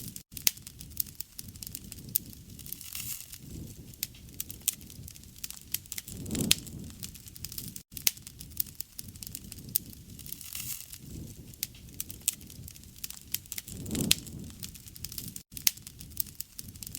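Bonfire crackling, with many sharp pops and snaps over a low rush of flame that swells a few times.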